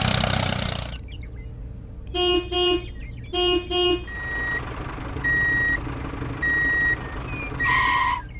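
Vehicle engine noise that cuts off about a second in, then a horn tooting twice, twice over, followed by four high steady beeps about a second apart, like a reversing alarm.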